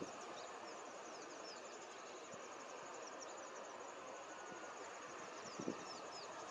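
Outdoor natural ambience: a steady hiss with many faint, short, high falling chirps, and a soft low thump about five and a half seconds in.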